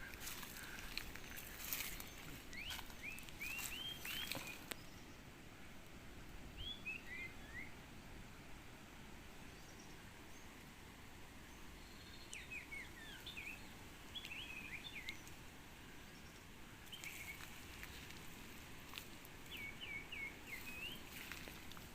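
Small songbird calling in four short bursts of quick, high chirping notes that bend up and down, with a few faint clicks and rustles near the start and again later.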